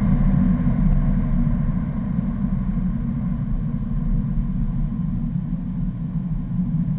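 2011 BMW M3's V8 engine running under load on track, heard as a steady low drone inside the cabin, easing slightly about two seconds in as the car approaches a turn.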